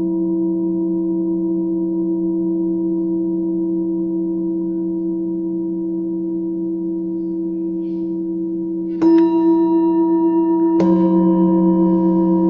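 Singing bowls ringing with long, steady tones and shimmering overtones. A bowl is struck about nine seconds in and another a couple of seconds later, each adding a new ringing layer over the sustained hum.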